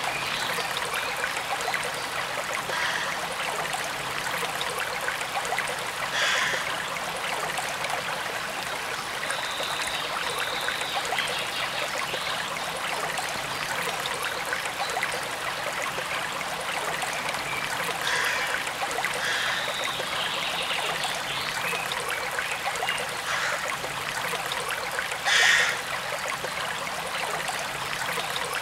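A forest stream running steadily, with water trickling and gurgling over stones. A few brief louder splashes stand out, the loudest a little before the end.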